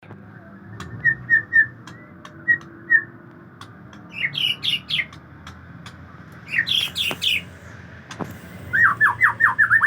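Male white-rumped shama (murai batu) singing: a few short chirps, then rising and falling whistled phrases, ending in a fast run of about six down-slurred notes.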